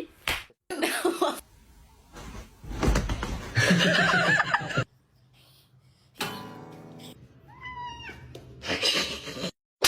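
A house cat meowing, heard among several short clips that cut abruptly one into the next, with voices in some of them.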